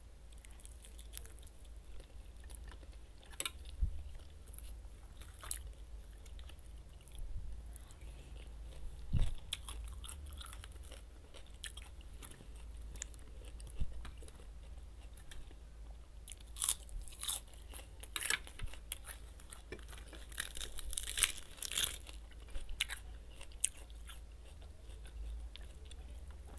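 Close-miked eating: a person chewing and biting a roast chicken meal with lettuce and salad, with sharp crunching bites, sparse at first and coming thick and fast about two-thirds of the way through.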